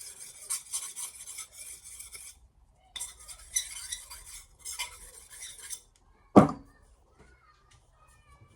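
A knife's edge scraped along a hard surface to blunt it before sharpening, in two long scratchy passes. A single loud knock follows about six seconds in.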